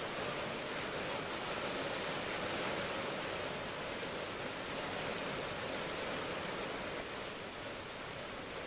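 Steady rain ambience: an even, unbroken hiss of rainfall with no separate drops or other events.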